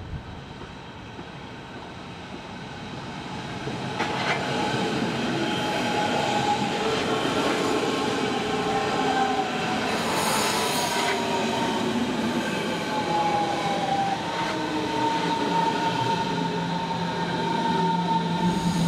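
Berlin S-Bahn Class 481 electric train approaching round a curve and running past, growing louder over the first four seconds. Its running noise carries a whine that slides slowly in pitch, with wheels squealing on the curved track.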